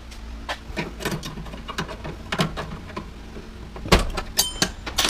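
Knocks, clanks and scraping of metal parts being worked loose from a washer/dryer cabinet during scrapping, with a louder clatter and a brief metallic ring about four seconds in.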